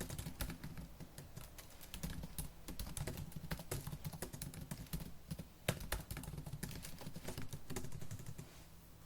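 Fast typing on a laptop keyboard: a dense run of quick key clicks with one louder stroke a little past halfway. The typing stops shortly before the end.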